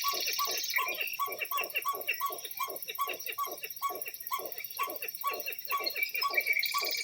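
A bird calling over and over, short falling calls about three a second, with higher chirping above them.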